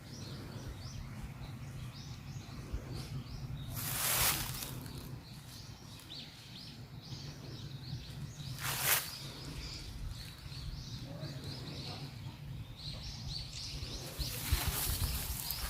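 Small birds chirping in many short, high calls over a steady low outdoor rumble, with brief bursts of broad noise about four seconds in, about nine seconds in, and near the end.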